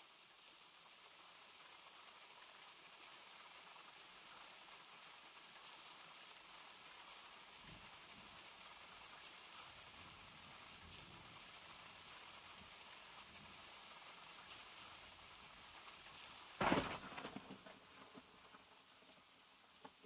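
Steady rain falling, with faint low rumbles through the middle. Near the end a sudden loud crack of thunder breaks in and fades away over a second or so.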